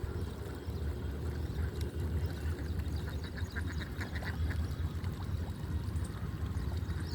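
Birds calling: a quick run of short repeated notes and a few high chirps in the middle, over a steady low rumble.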